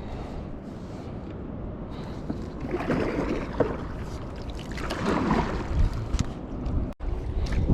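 Wind rumbling on the microphone out on the water from a kayak, with water noise and two louder swells about three and five seconds in. The sound cuts out for an instant near the end.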